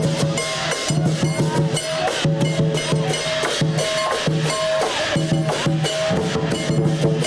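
Chinese lion dance percussion: drums and gongs beaten in a fast, dense, unbroken rhythm, with the gongs ringing on between strikes.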